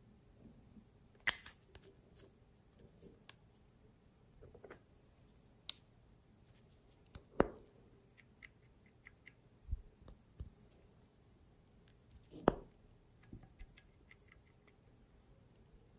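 Slime being worked by hand, giving scattered sharp sticky pops and clicks. Three louder ones come a little over a second in, about halfway and about three-quarters through.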